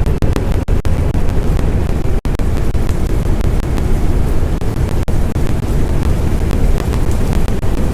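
Loud, gusting low rumble of strong wind buffeting the microphone, with a few brief dropouts.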